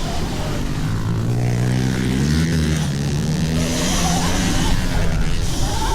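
Pit bike motors running, with the pitch of one climbing about two seconds in as it speeds up.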